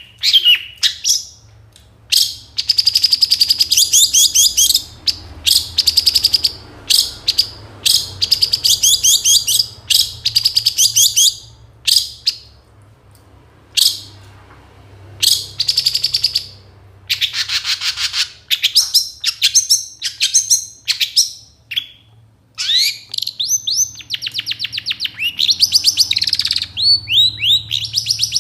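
Long-tailed shrike in full song, with fast chattering runs of rapid notes broken by short pauses and a string of repeated downslurred notes near the end. The song is packed with imitations of other birds' calls.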